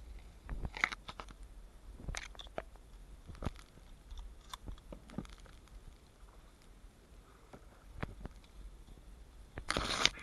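Scattered clicks, knocks and rustling from hunters shifting and handling gear at close range. A longer, louder rustle comes near the end.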